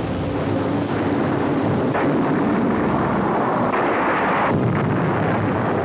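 Dense, steady rumble of an air attack on an old film soundtrack: bomb explosions and aircraft noise, with a sharp blast about two seconds in and a louder stretch around four seconds in.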